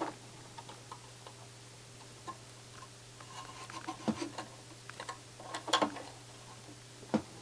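Scattered small clicks, taps and rubbing from handling connectors and parts inside an opened CD player, a few sharper clicks in the second half, over a steady low hum.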